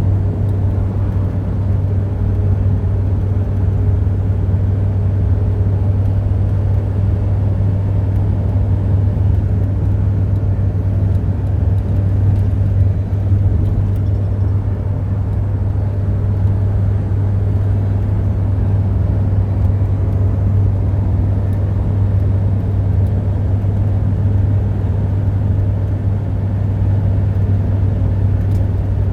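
Steady low vehicle rumble with a constant low hum, unchanging throughout.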